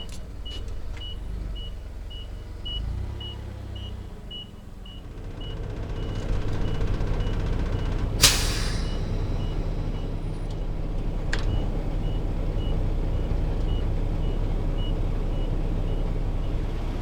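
Semi-truck diesel engine running, the Kenworth T660's Paccar MX-13, getting louder about six seconds in. Over it a high electronic beep repeats about twice a second. About eight seconds in there is one sharp air-brake hiss.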